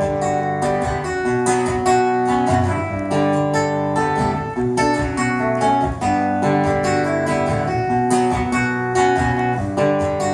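Instrumental break in a song: strummed acoustic guitar with accompaniment, no singing.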